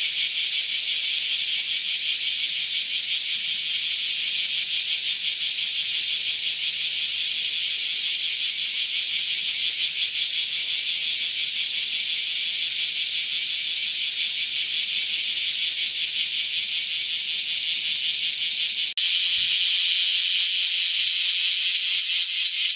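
Cicadas singing: a loud, steady, high-pitched buzz made of very rapid pulses. About 19 seconds in it changes abruptly to a slightly different buzz.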